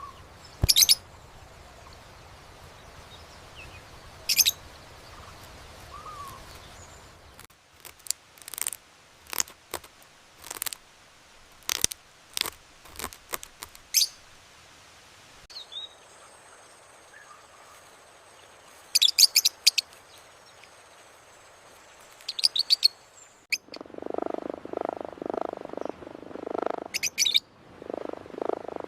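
Small birds chirping in short, sharp, high bursts, scattered singly and in quick runs. In the last few seconds a lower pulsing call joins them, repeating about two to three times a second.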